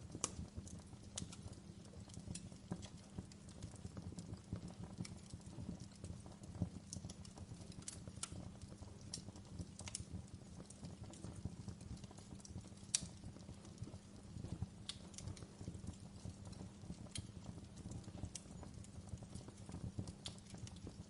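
Wood fire burning in a fireplace: a steady low rumble of flames with scattered sharp crackles and pops, one louder pop about 13 seconds in.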